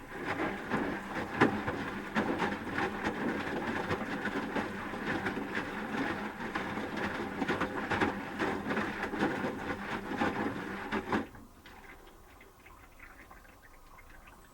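Asko Quattro W6098X washing machine drum turning and tumbling wet laundry during the heating phase of the wash, a steady churning rustle full of small knocks. About eleven seconds in the drum stops and the sound drops away to a low hum for the pause between turns.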